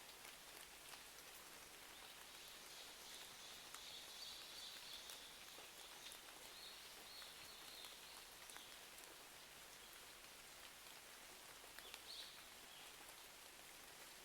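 Soft, steady rain hiss with scattered small ticks of drops, with a faint high-pitched sound during the first part and again near the end.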